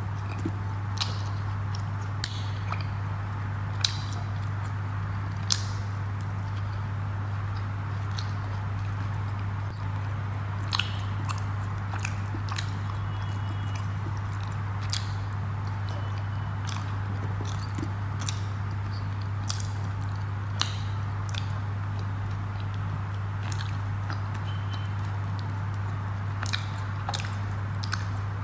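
A person eating paratha and curry by hand, chewing with scattered wet mouth smacks and clicks, over a steady low hum.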